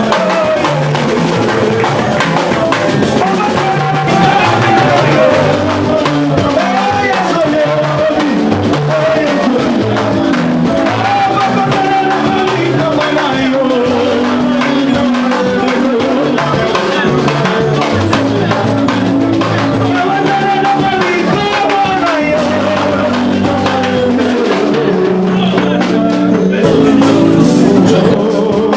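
Band music with a drum kit, a bass line moving in held steps and a melody line that glides up and down on top, playing continuously.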